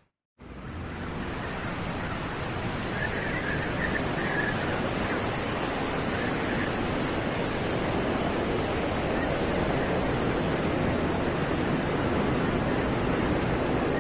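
Steady rushing noise of wind and traffic on snowy city streets, starting just after a brief dropout.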